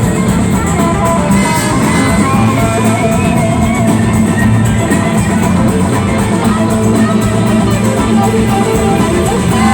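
Live rock band playing loud and steady, electric guitar lines over drums and bass, heard from the audience.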